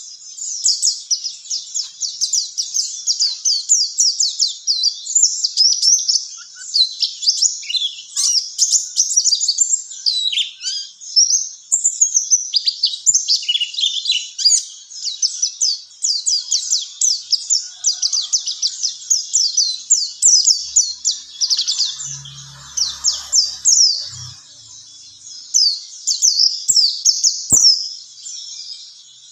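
White-eye (pleci, Zosterops) singing a rapid, high twittering song of quick chirps and trills, almost unbroken with brief pauses.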